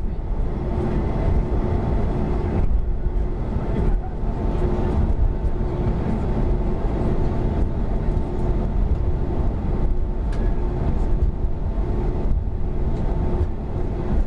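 Boeing 737-300's CFM56-3 jet engines running steadily, heard inside the passenger cabin as a deep rumble with two steady humming tones over it.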